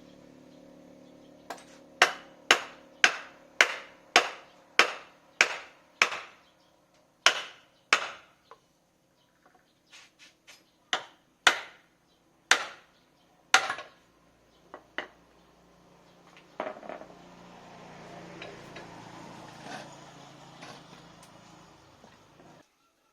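Hammer blows on metal during motor repair work: a run of sharp, even strikes about two a second, then slower, scattered blows and light taps. After that comes a softer, steady rustling noise that stops suddenly near the end.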